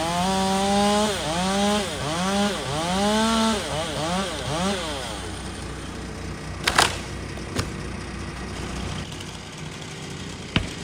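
Chainsaw cutting into a large dead oak, its engine pitch dipping and climbing back again and again as the chain loads up in the cut, for about five seconds. After that the saw falls away and a few sharp knocks or cracks follow.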